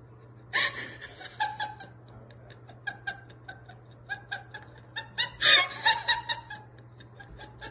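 A person laughing in quick, short snickering bursts, loudest about five and a half seconds in, over a steady low hum.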